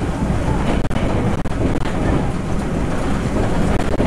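Cabin noise inside a Taroko Express tilting electric train running at speed: a steady rumble of wheels on rail with wind noise, and a few faint clicks.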